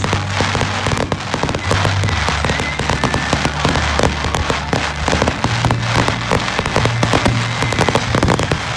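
Aerial fireworks shells bursting in quick succession, with dense crackling and popping throughout. Music with a low bass line plays underneath.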